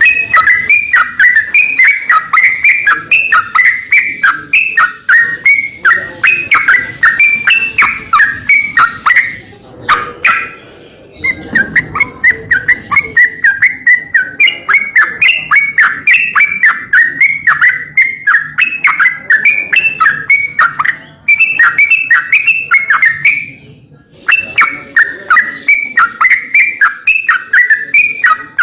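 Crocokan songbird singing nonstop: a fast, loud string of short, sharp chirping notes, several a second, breaking off briefly about ten seconds in and again near the end.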